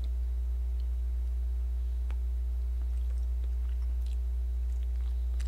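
Faint chewing of a mouthful of baked egg, with a few small soft mouth clicks. A steady low hum runs underneath and is the loudest thing heard.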